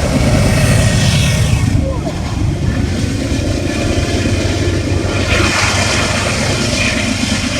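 Norfolk Southern diesel freight train passing directly beneath the bridge: a loud, steady low engine rumble with rail noise, a hissing rush swelling about five seconds in.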